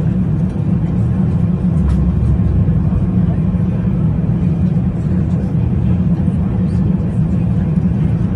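Steady, loud rumble of airflow and engines heard inside an Airbus A380's passenger cabin in flight.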